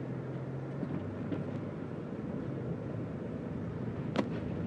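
Steady in-cabin drive noise of a Toyota Camry 2.4's four-cylinder engine and tyres. A low steady tone stops about a second in, and there is a single sharp click about four seconds in.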